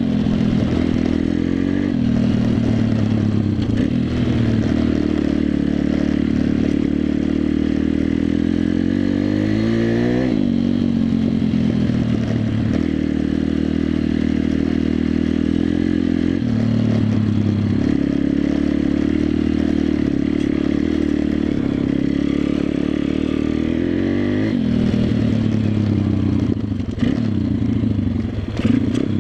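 WPB 140 Race pit bike's single-cylinder four-stroke engine running under way. Its pitch climbs and drops back sharply about three times.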